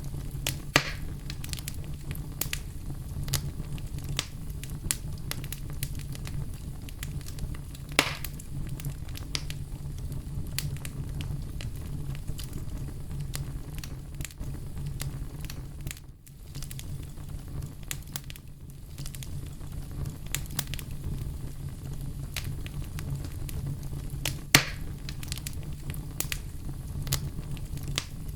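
Campfire burning, with a steady low rumble under frequent small crackles. A few louder pops come about a second in, at about eight seconds and near the end.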